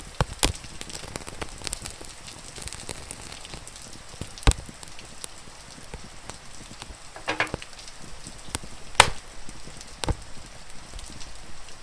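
Wood fire crackling with scattered sharp pops, the loudest about four and a half and nine seconds in, over a steady hiss of rain.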